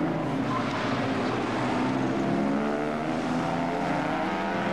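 Historic sports racing car engines running hard on the track, several engine tones overlapping, their pitch climbing gently in the second half as the cars accelerate.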